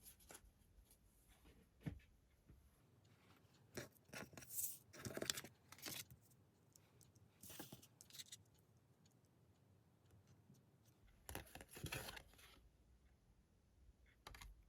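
Tarot cards being handled: intermittent rustling and sliding swishes with light taps, in clusters about four to six seconds in, near eight seconds and around twelve seconds.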